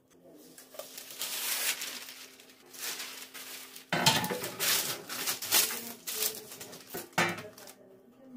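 Dishes and cutlery being handled in a kitchen, clattering and clinking in several noisy bursts, with sharp knocks about four seconds in and again near the end.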